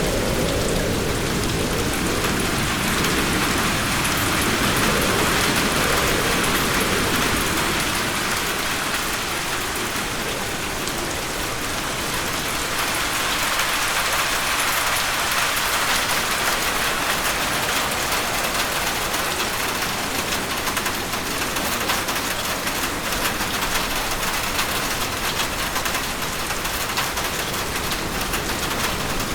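Steady heavy rain hitting a roof as a dense hiss with fine patter of individual drops. A low rumble underneath fades out over the first several seconds.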